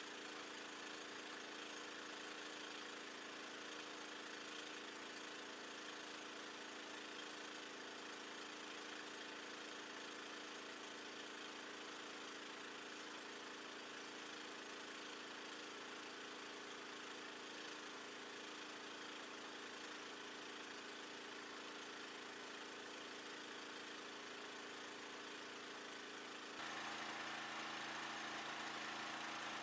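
An engine idling steadily. About three quarters of the way through it becomes louder, with deeper tones coming in.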